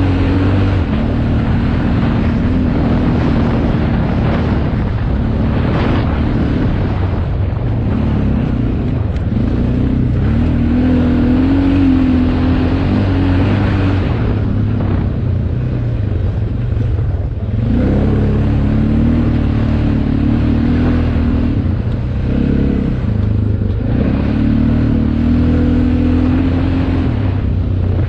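Motocross motorcycle engine running hard, its pitch rising and falling with the throttle. It drops briefly about two-thirds of the way through, then climbs again.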